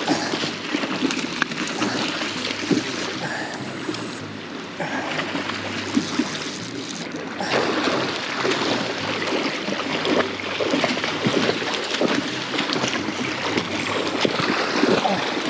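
River water rushing and splashing close to the microphone, with many short irregular splashes over a steady wash.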